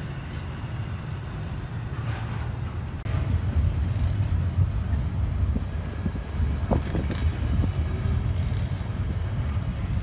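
Double-stack container well cars rolling past on the rails: a steady low rumble with scattered brief wheel clicks and squeaks, louder from about three seconds in.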